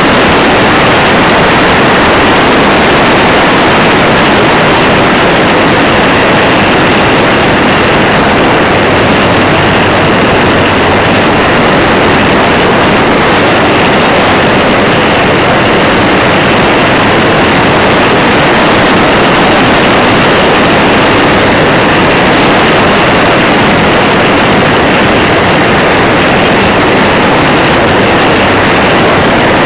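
Loud, steady noise of a model Cessna airplane's motor and propeller, heard through the tiny microphone of a micro camera mounted on the plane, mixed with wind rush and without change in pitch.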